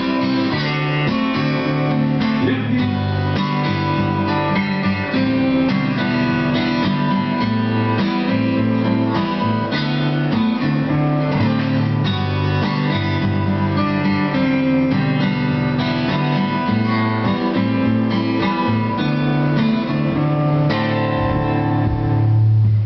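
Acoustic guitars playing an instrumental break in a slow lyrical song, strummed chords with picked notes over them, after a last sung word about two seconds in. Near the end the higher notes drop away and a low chord rings out.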